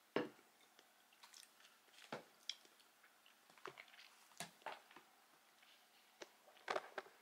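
A person chewing crunchy food: quiet, irregular crunches and clicks, a handful of louder ones spread through.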